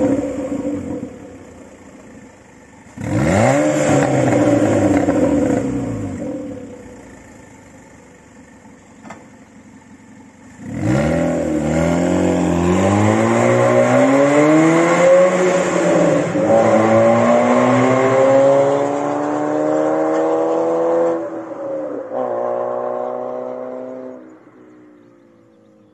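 2007 PGO Cévennes roadster's four-cylinder engine revving. A rev dies away at the start, and a second sharp blip about three seconds in falls back to idle. About eleven seconds in the car pulls away hard, the revs climbing through several upshifts, then the sound fades as it drives off through a concrete underpass.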